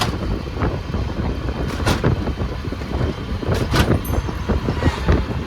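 A road vehicle running: a steady low rumble with scattered rattles and knocks.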